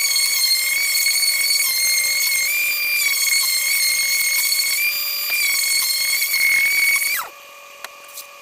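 Power drill fitted with a sanding pad, wet-sanding a headlight lens with 220-grit paper: a loud, steady high-pitched motor whine that shifts pitch slightly twice and cuts off about seven seconds in.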